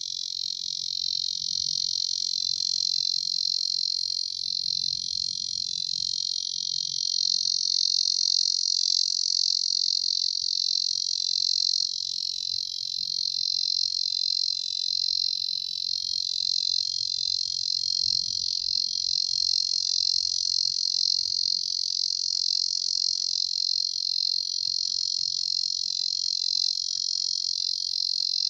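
Cicadas singing: a loud, steady, high-pitched buzz that goes on without a break.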